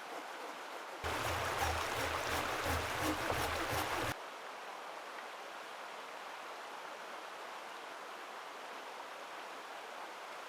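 Steady hiss of water outdoors. About a second in, a louder stretch of about three seconds with a low rumble and patter cuts in and then stops abruptly.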